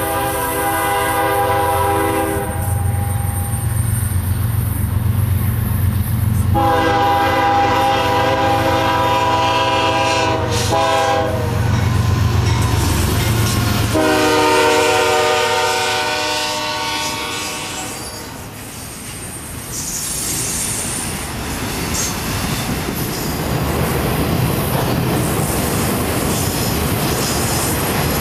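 A CSX diesel locomotive's air horn blows a long blast, a short toot and another long blast, in the long-long-short-long pattern of a grade-crossing signal, over the locomotive's engine rumble as it passes. Then its train of autorack cars rolls by with steady wheel noise and clickety-clack over the rail joints.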